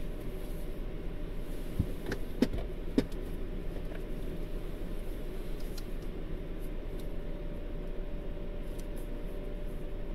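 Car engine idling, heard from inside the stationary car as a steady low hum, with a few sharp clicks or knocks about two to three seconds in.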